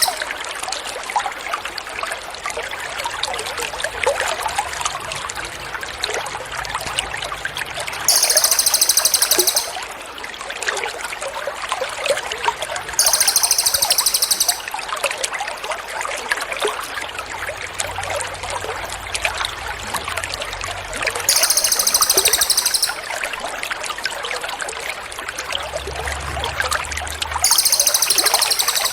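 Water trickling steadily, with a songbird's very high, rapid buzzy trill laid over it. The trill comes four times, each about a second and a half long, at uneven gaps.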